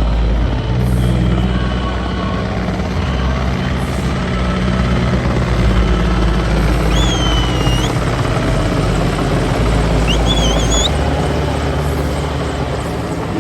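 Helicopter rotor and engine running steadily as it circles overhead, a loud continuous low chop. Two short high whistles cut through, about 7 and 10 seconds in.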